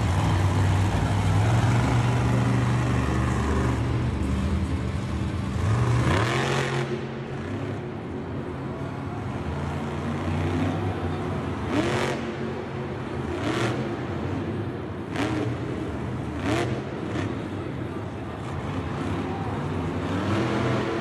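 Off-road vehicle engine running, with a rising rev about six seconds in, then four short throttle blips about a second and a half apart.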